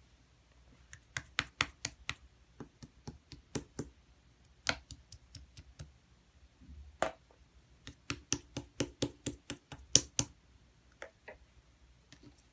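Clear slime being handled and pressed, giving a run of sharp, irregular clicks and pops in quick clusters with short lulls between them.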